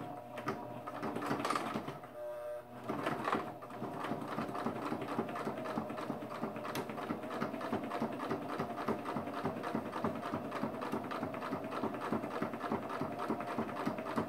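Electric sewing machine running, its motor humming and the needle stitching in a fast, even clatter, a little uneven for the first few seconds before settling to a steady pace.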